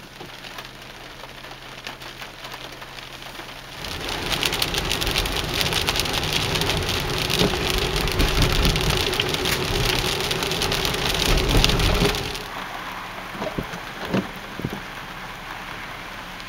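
Heavy rain hitting a car's roof and windshield, heard from inside the cabin. The rain grows much louder about four seconds in and eases off sharply around twelve seconds, followed by a few short knocks.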